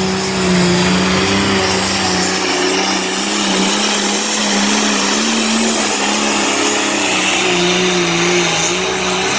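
Pulling truck's engine running hard and loud at high, nearly steady revs while dragging a weight-transfer sled, its pitch rising and falling slightly.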